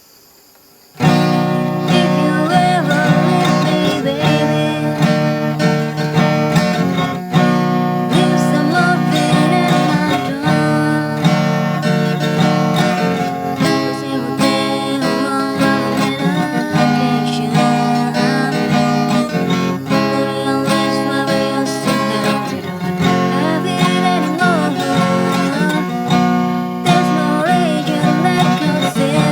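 Acoustic guitar music, starting about a second in, with strummed chords under a wavering melody line.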